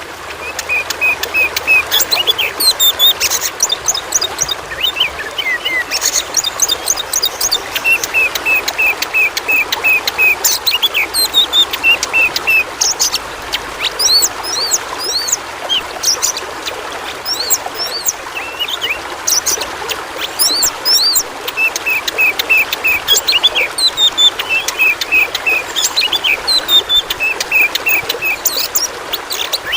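Oriental magpie-robin (kacer) singing throughout: rapid runs of short repeated notes and quick whistled sweeps, over a steady background of trickling water.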